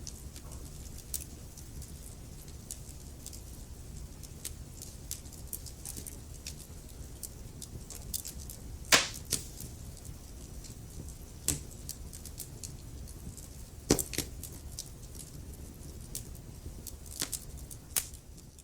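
Wood fire crackling in a fireplace: a steady low rumble of burning with frequent small crackles and a few sharper, louder pops, the loudest about nine and fourteen seconds in.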